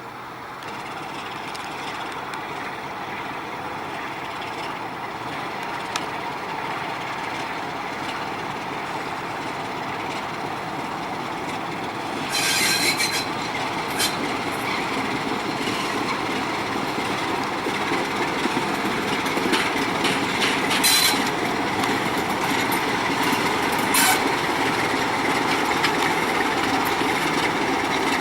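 Freight train rolling past, its wheels rumbling and clattering on the rails and getting gradually louder, with brief high-pitched wheel squeals about halfway through and again a few times later.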